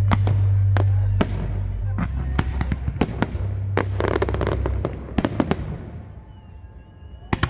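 Fireworks display: a rapid run of sharp bangs from shells bursting overhead. The bangs thin out to a lull about six seconds in, and a loud bang comes near the end.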